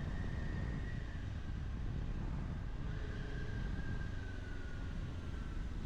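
Kawasaki Ninja 400's parallel-twin engine running while riding, under a steady low rumble of wind noise on the helmet microphone, with a faint thin whine that drifts slowly down in pitch.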